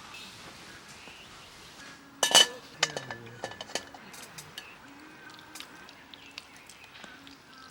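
A single sharp clink of dishes or utensils about two seconds in, followed by a scatter of lighter clicks and taps.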